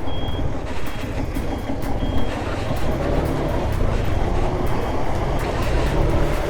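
Steady rumble of a motor vehicle in motion, with a constant wash of road and wind noise.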